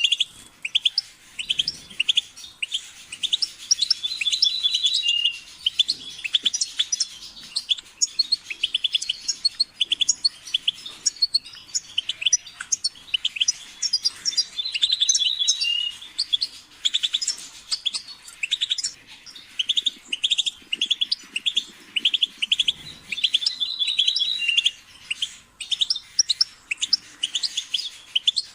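European goldfinch singing: a fast, unbroken run of twittering chirps and trills, with a brighter, higher phrase coming back a few times.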